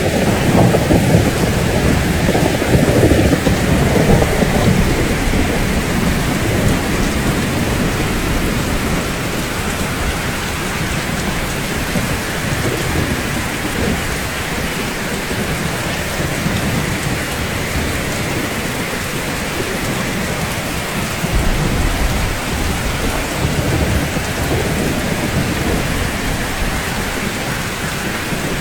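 Rain falling steadily, with a low rumble of thunder over the first few seconds that dies away, and a short, fainter rumble about three quarters of the way through.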